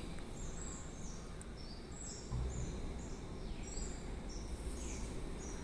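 Small birds chirping in trees: many short, high notes, some stepping down in pitch, over a steady low rumble that swells briefly a little after two seconds.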